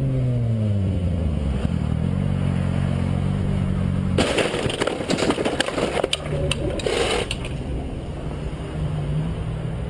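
A vehicle engine drops in pitch as it slows, then runs steadily. About four seconds in, a loud collision hits, with about three seconds of crunching and clattering impacts.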